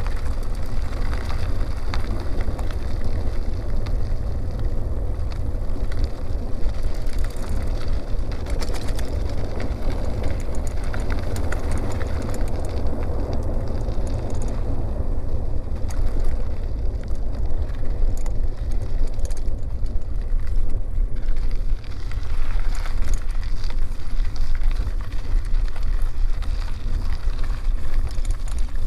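Riding noise from a bicycle on a forest road: wind on the microphone makes a steady low rumble, under tyre noise with scattered small clicks from the road surface.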